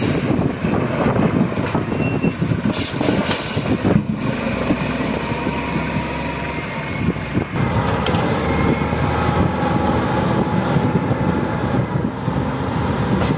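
Heavy diesel engines of wheel loaders and dump trucks running steadily, with a faint high whine and a couple of sharp knocks.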